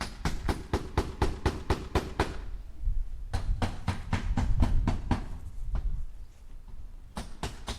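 Hammer striking nails into wood in quick runs of sharp taps, about five a second, with short pauses between runs.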